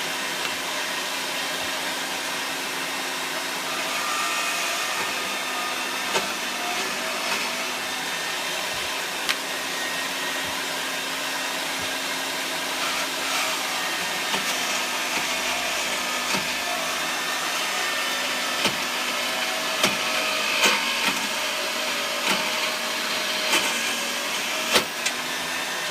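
Steady whir of a workshop electric motor with a constant low hum, and scattered sharp clicks of small parts being handled, several of them near the end.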